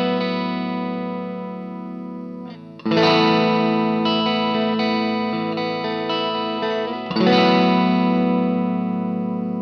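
Overdriven electric guitar chords through an Ibanez Tube Screamer Mini pedal, from a Fender Stratocaster into a Marshall MG15 amp. Each chord is struck and left to ring out and fade, with new chords coming in about three seconds in and again about seven seconds in.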